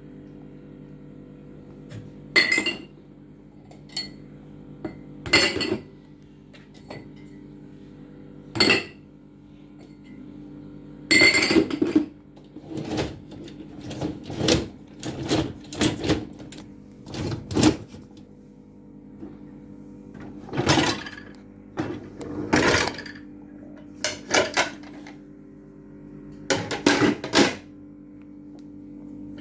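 Dishes clinking and clattering against each other and the dishwasher racks as they are unloaded, in irregular knocks with a busier run in the middle, over a steady low hum.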